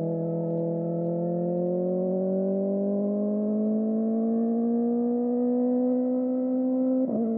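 Kawasaki ZX-4RR's inline-four engine through a Trick Star Ikazuchi slip-on exhaust, pulling under steady throttle with the pitch rising slowly. Near the end the note breaks briefly and settles slightly lower.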